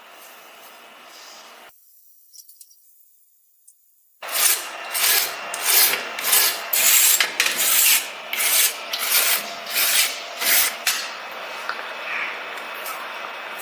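Hand filing on a scale model car: rasping back-and-forth strokes, about two a second. They start suddenly after a quiet pause about four seconds in and grow fainter near the end.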